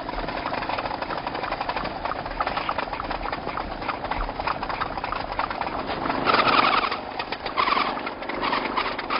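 Motorbike engine running with a fast, rattly clatter, growing louder about six seconds in.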